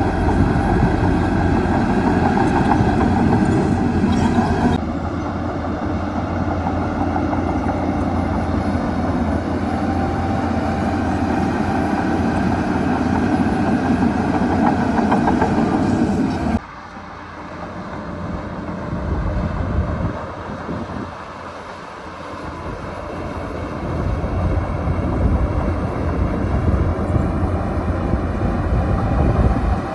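Heavy diesel earthmoving machinery at work: engines running with a deep rumble and clatter. The sound changes abruptly about five seconds in and again just past halfway, where it drops quieter, then builds back up.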